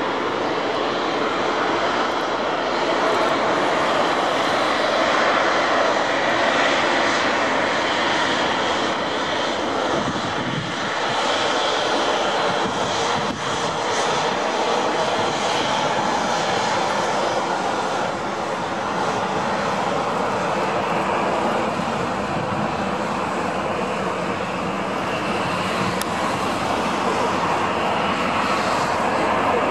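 Jet engines of a Boeing 737-700 running with a steady, even noise and a constant low hum underneath.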